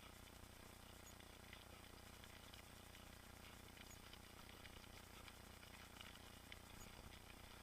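Near silence, with faint scattered ticks and light rattles from a mountain bike being ridden along a trail.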